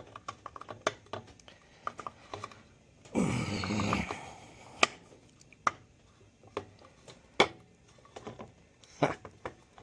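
Scattered light clicks and taps of hand tools and metal engine parts being handled during hand work on an engine, with one longer, rougher sound lasting about a second, about three seconds in.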